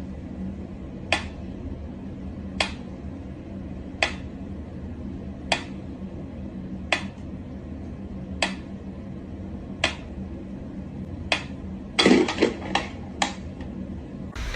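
Sharp taps or clicks, one about every second and a half, over a steady low hum, with a quick cluster of louder knocks near the end.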